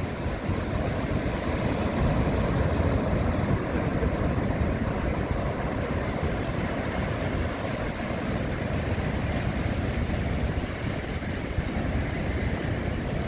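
Steady rushing of surf with wind buffeting the microphone, swelling a little about two seconds in.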